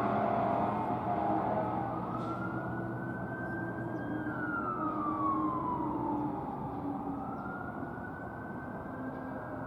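Emergency vehicle siren sounding a slow wail, its pitch rising and falling in long sweeps, over a steady engine and road rumble.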